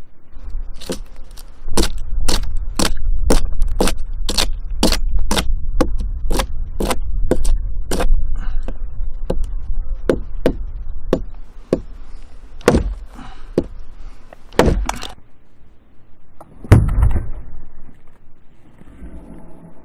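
A hand blade chopping into firewood with quick, even blows, about two a second. The chopping stops, a few spaced strikes follow, and then one heavy, deeper thud comes near the end.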